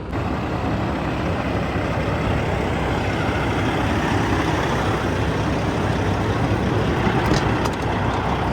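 Semi-truck running with steady engine and road noise, and a few faint clicks near the end.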